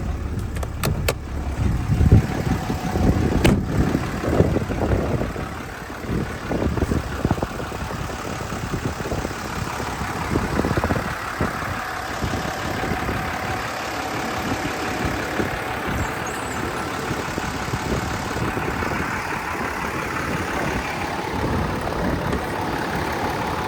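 2012 Ram 2500's 6.7 Cummins diesel idling steadily, with a sharp click and some uneven low bumps in the first few seconds.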